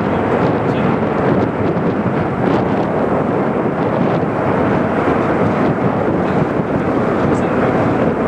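Steady, loud roar of a Boeing 787-8's Rolls-Royce Trent 1000 jet engines, mixed with wind on the microphone.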